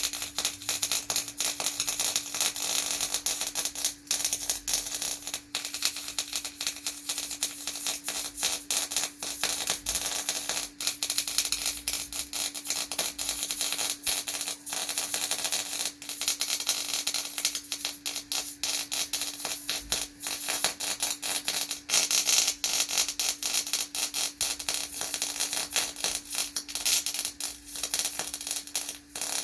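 Electric arc welding on steel: the arc crackles and sizzles continuously with a dense patter of fine clicks, over a steady hum.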